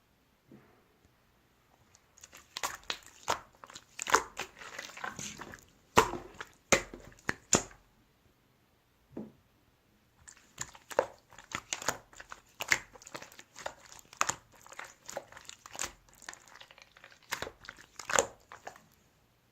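Slime being squeezed and pressed by hand, giving dense crackling, crunching pops in two long runs with a short pause between them.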